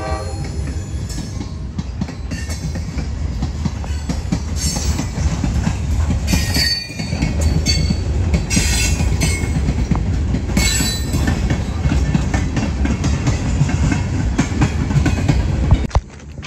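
A CSX freight train rolling past at close range, its steel wheels rumbling and clattering on the rails. There are several short high-pitched wheel squeals. The sound cuts off suddenly near the end.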